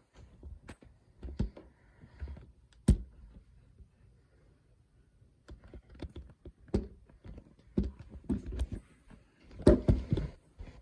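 Irregular clicks, taps and dull knocks, sparse at first, then bunched after a quiet stretch of about two seconds, with the loudest cluster near the end.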